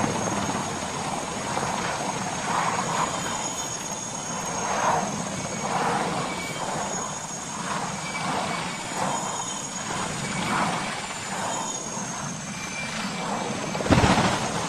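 Steady aircraft engine noise that swells and fades a little every second or so, with a short loud burst near the end.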